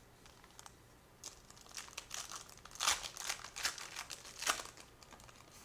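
Trading-card pack wrapper being torn open and crinkled by hand: a run of crackly rustles, loudest about three seconds in and again shortly before the end.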